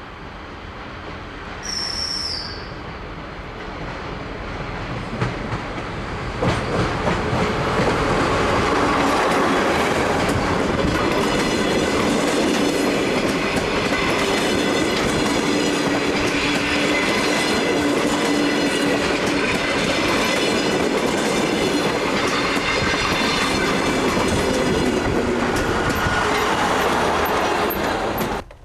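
DR-1A diesel multiple unit running on rails, growing louder over the first several seconds, then a steady loud rumble with wheels clacking over rail joints and some high wheel squeal, until it cuts off suddenly near the end. A brief high whistle sounds about two seconds in.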